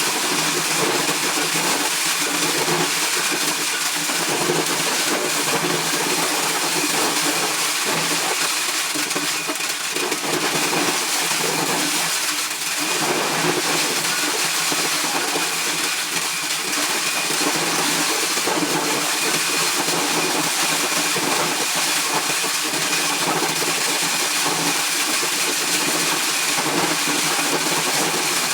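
Engine-driven corn shelling machine running steadily, with a dense, even mechanical noise and a constant hum.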